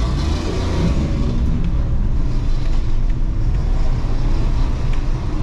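Engine and road noise inside the cabin of a 660cc Suzuki Alto kei car on the move: a steady low rumble from its small three-cylinder engine and the tyres.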